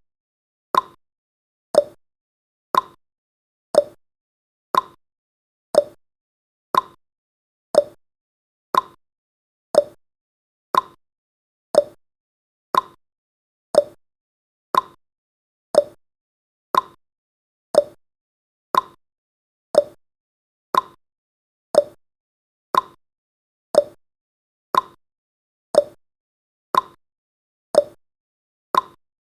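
Countdown timer's clock tick-tock sound effect: a sharp tick once a second, alternating between a higher and a lower tick.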